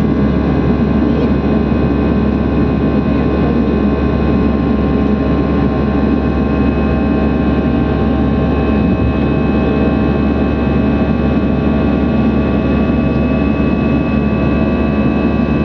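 A jet airliner's engines running steadily after takeoff. It is a constant rushing noise with several steady whining tones that holds level throughout.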